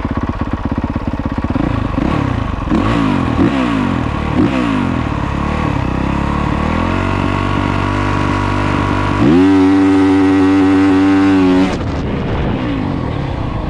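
Single-cylinder four-stroke 450 dirt bike engine, a 2022 Honda CRF450R Works Edition, blipped up and down a few times. About nine seconds in the revs jump and are held high and steady for a couple of seconds, then fall away. This is the revs held against the slipping clutch during a launch off the line.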